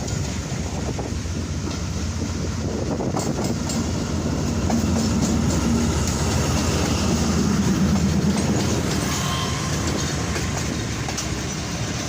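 Pak Business Express passenger train pulling into a station, its wheels clacking over the rail joints; the sound builds to its loudest about two-thirds of the way through and eases off near the end.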